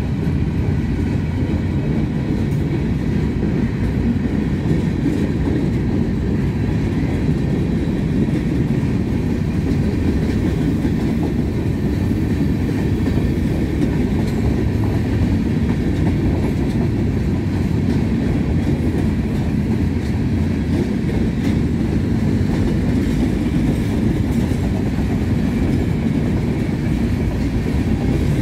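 Freight train of covered hopper cars rolling past at steady speed: a continuous heavy rumble of steel wheels on the rails that holds even throughout.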